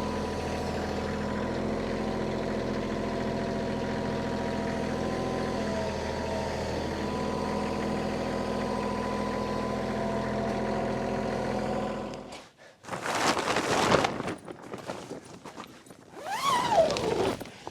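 Small diesel tractor engine idling steadily, then shut off about twelve seconds in. Two loud rough scraping noises follow, the second with a squeal that falls in pitch.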